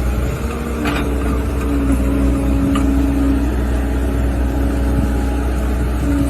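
Engine running steadily, a low rumble under a constant hum, with a couple of faint clicks.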